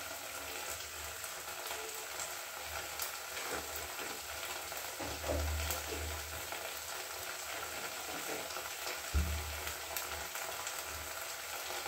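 Onion-tomato masala paste frying in a steel kadhai on a gas burner: a steady sizzle with faint scattered pops and crackles.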